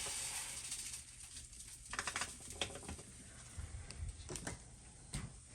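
Washing machine cleaner sizzling faintly in the washer tub after being poured in. A pouring hiss dies away in the first second, followed by scattered small crackles and pops as the cleaner reacts.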